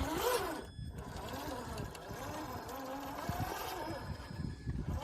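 Electric motor and gearbox of a Traxxas RC crawler truck whining, its pitch rising and falling as the throttle is worked.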